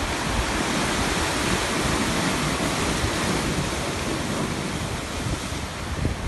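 Sea waves breaking and washing on the shore, a steady surf hiss, with wind rumbling on the microphone.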